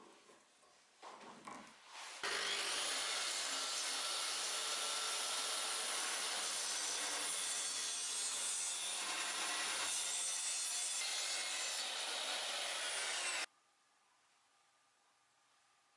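A power tool running steadily on wood for about eleven seconds, starting about two seconds in and cutting off abruptly, after a few light knocks.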